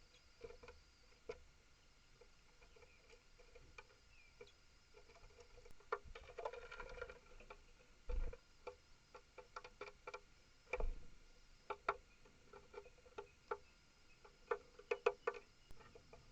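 Irregular small clicks and taps of a small animal pecking or gnawing at frozen food on a bird table tray, with a denser spell of scratching a few seconds in and a couple of duller knocks on the table.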